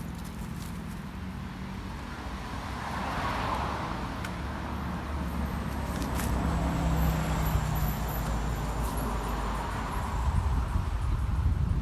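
Road traffic: vehicles passing by over a low steady rumble, the tyre and engine noise swelling about three seconds in and again near the end.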